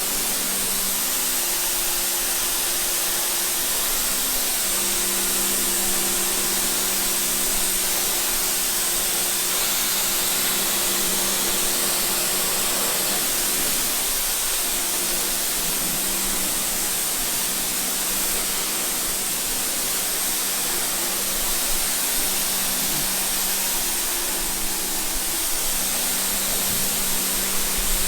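Steady hiss of water spraying, with a faint low hum underneath that holds steady throughout.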